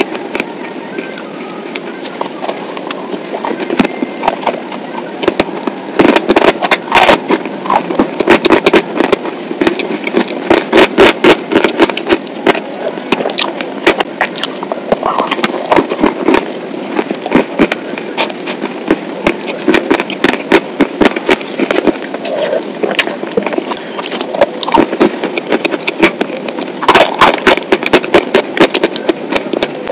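Close-miked chewing of a dry, crumbly chunk: dense, irregular crunching and crackling in the mouth, thickest in two spells, the second near the end.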